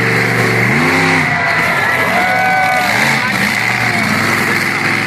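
Monster truck's big engine running loudly and being revved, its pitch rising and falling about a second in and again around three seconds. The crowd's voices are mixed in.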